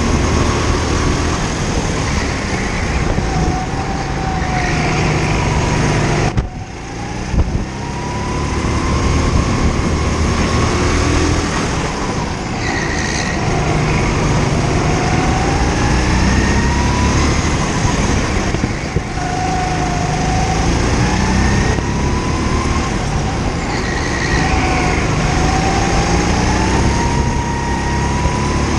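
Go-kart engine heard onboard, rising in pitch and falling away again every few seconds as the kart accelerates and lifts through a lap, over a steady rush of noise. About six seconds in the sound briefly drops away, followed by a single knock.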